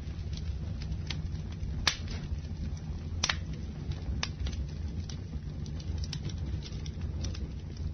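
Campfire burning: irregular sharp crackles and pops over a steady low rumble, the loudest pop about two seconds in.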